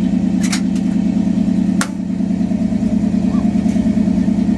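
1955 Chevrolet pickup's engine idling with a steady, fast, even pulse. Two short sharp clicks are heard over it, about half a second and nearly two seconds in.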